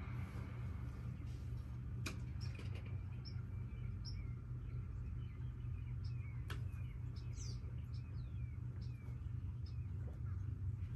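Birds chirping in short, high calls over a steady low rumble, with a couple of sharp clicks.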